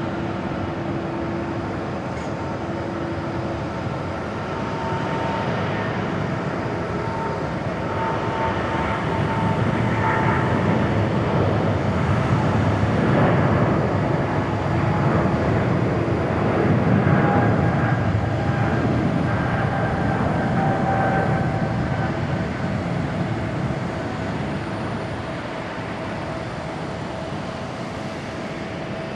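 Boeing 777-200ER twin-jet airliner taking off at full thrust. The engine roar with its steady whining tones swells to a peak around the middle, then fades as the aircraft moves away.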